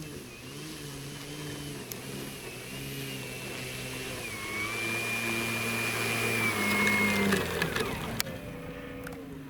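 Electric motor and propeller of a radio-controlled airplane whining, the pitch stepping up and down with the throttle, then winding down about eight seconds in.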